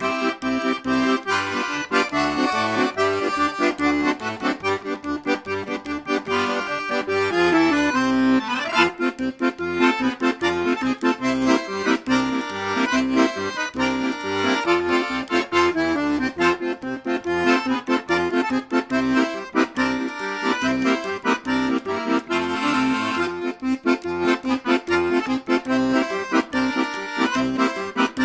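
Accordion playing a tune over a steady, rhythmic accompaniment.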